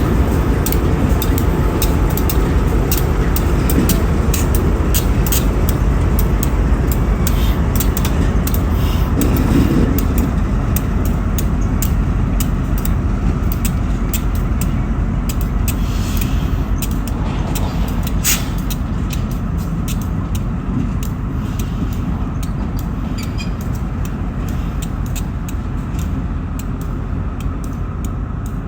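Freight train's diesel locomotives working at low speed while slowly shoving a cut of freight cars: a steady low rumble with frequent light clicks and knocks, and a brief squeal around the middle.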